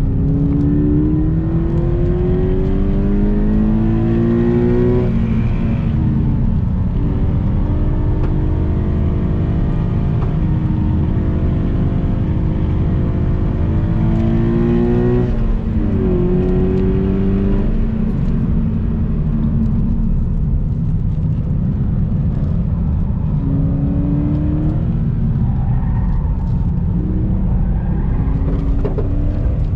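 Subaru BRZ's flat-four engine pulling hard on a race track. The engine note climbs for several seconds at a time and drops sharply on lifts or shifts, notably about five and fifteen seconds in. Steady road and wind rumble runs underneath.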